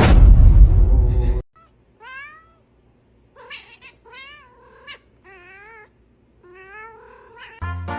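A loud, rough noise lasting about a second and a half, then a cat meowing about five times, each call wavering in pitch.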